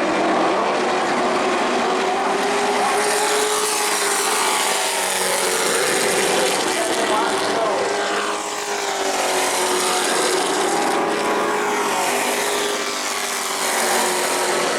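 Engines of several short-track race trucks running at speed as the field passes, their pitch rising and falling and overlapping as the trucks go by.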